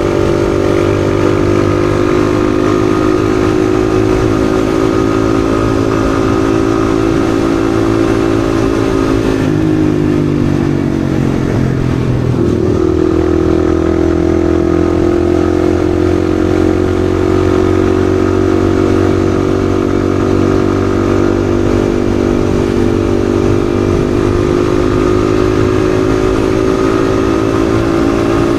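Yamaha XSR155's single-cylinder engine running at cruising speed. About ten seconds in the engine note falls as the rider comes off the throttle, then a couple of seconds later it steps up and climbs slowly again as the bike picks up speed.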